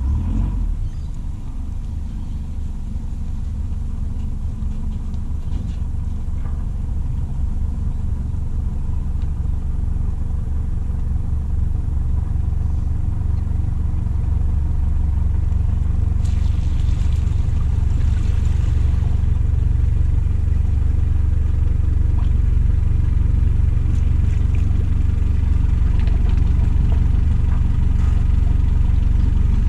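A boat's engine running steadily under way, with a low rumble that slowly grows louder.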